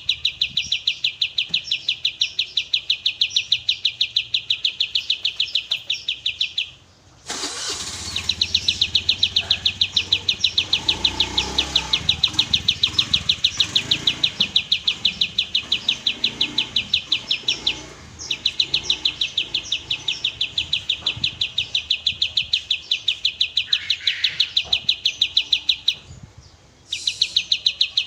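Kapas tembak songbird singing a long, very fast trill of high notes, broken by short pauses about a quarter of the way in, about two-thirds through, and near the end. A low rumble sits under the song for a few seconds after the first pause.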